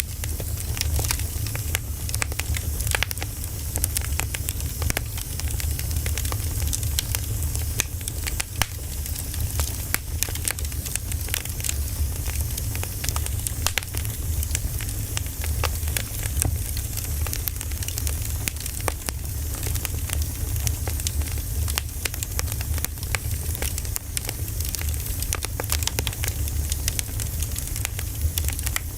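Wood fire burning, with dense, irregular crackles and pops over a steady low rumble.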